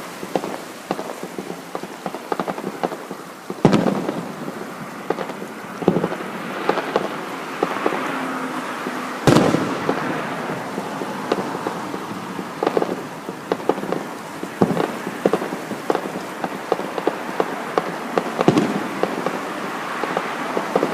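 Aerial fireworks bursting: repeated sharp bangs, the loudest about four, nine and eighteen seconds in, over continual crackling and popping.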